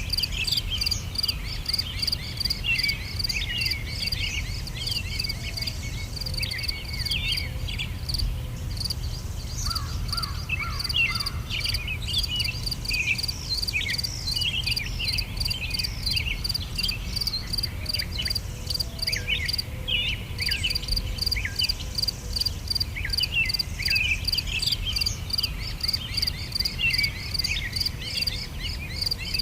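Outdoor nature ambience: insects calling in an even, steady pulse, with many short, high chirping calls from other animals over it and a low rumble underneath.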